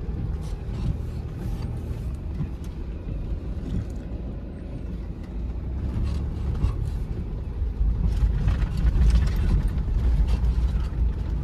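Road vehicle driving over a rough, broken road: a steady low rumble with scattered knocks and rattles, growing louder in the second half.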